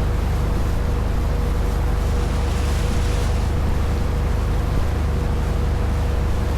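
Boat engine running steadily under way, a deep hum with a thin steady whine above it, over the rush of water along the hull and wind on the microphone; the rush swells briefly about halfway through.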